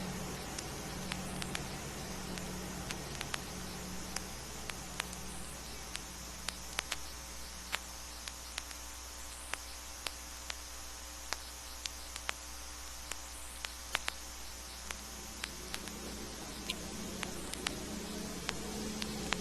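Vinyl record surface noise, a steady hiss and hum with scattered sharp clicks and crackle, in a quiet stretch between sound-effect tracks. A low drone fades out during the first half, and another fades in near the end.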